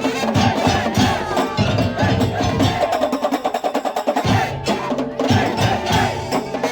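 Madurese daul (tong-tong) percussion ensemble playing: a fast rhythm on wooden slit drums and drums, with bell-like tuned percussion and a melody over it. The low drums drop out about three seconds in and come back a second later.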